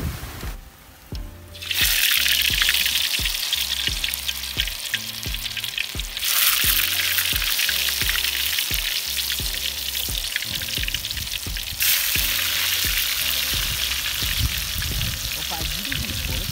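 Food frying in hot oil in a pan over a wood fire: a dense crackling sizzle that starts about two seconds in and jumps in level twice, over background music with a steady beat.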